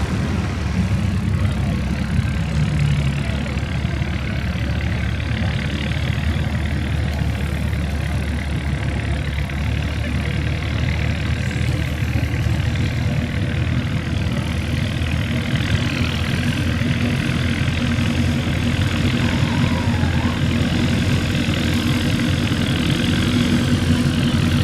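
Antique farm tractor engine idling steadily, with an even low-pitched hum.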